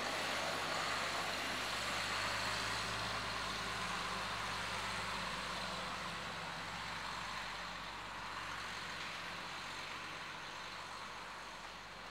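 Garbage truck's diesel engine running steadily with a broad mechanical rush over a low hum, slowly fading.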